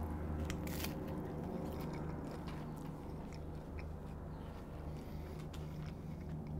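Crisp fried flour tortilla tostada being bitten into and chewed: scattered small crunches, the loudest just under a second in, over a steady low hum.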